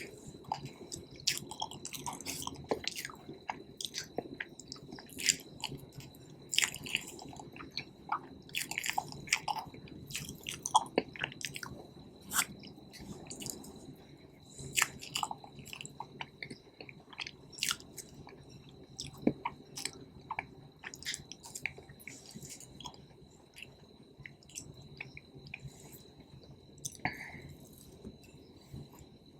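Close-miked chewing sounds of someone eating cake: wet, sticky mouth noises with many irregular quick smacks and clicks.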